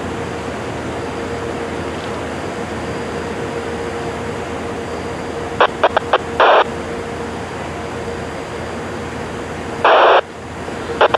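A steady mechanical drone with a held hum, broken by short, loud bursts of radio squelch static from a railroad scanner. A few clicks and a brief burst come a little past halfway, and a longer burst comes near the end.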